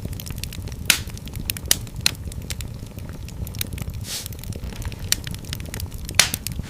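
Fireplace fire crackling steadily over a low rumble, with sharp pops about a second in, twice around two seconds, and a loud one near the end, and a short hiss about four seconds in.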